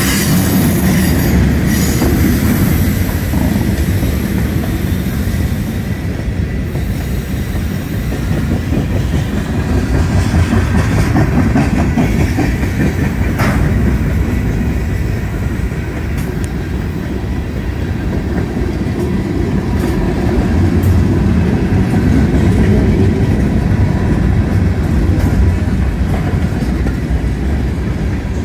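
Train cars rolling past close by on the CN Stamford Subdivision: a steady rumble and clatter of steel wheels on the rails, with some squeal from the wheels.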